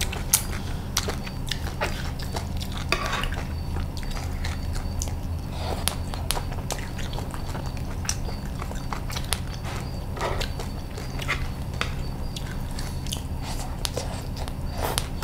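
Close-miked chewing of crispy fried rice-flour cake (bột chiên) with egg, with sharp crunches and clicks scattered throughout, and a metal spoon scraping and clinking on the plate. Under it runs a steady low hum.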